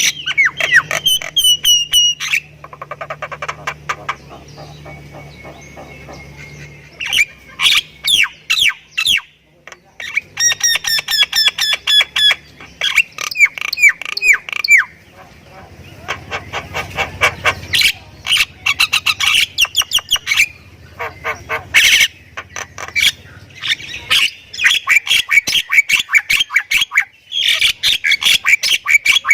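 Myna (jalak kebo) singing a long, varied song in full voice: fast runs of repeated notes, whistled glides and harsh squawks with only brief pauses, packed with fill-in phrases (isian).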